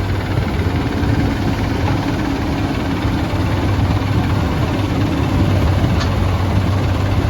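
SANY excavator's diesel engine running steadily with a deep, even hum. A single short click about six seconds in.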